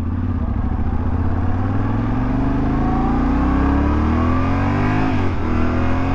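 Yamaha Ténéré 700's 689 cc CP2 parallel-twin engine pulling under acceleration, its note rising steadily. About five seconds in it drops sharply at an upshift, then starts climbing again.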